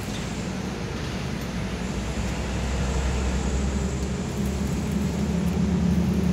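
A steady low mechanical rumble, like an engine, growing gradually louder, with a deeper hum coming in about four seconds in.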